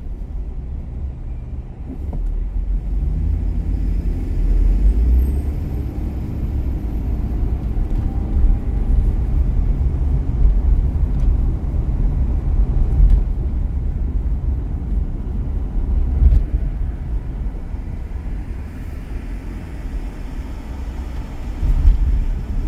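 A car driving on city streets: a steady low rumble of engine and tyre noise that swells and eases slightly.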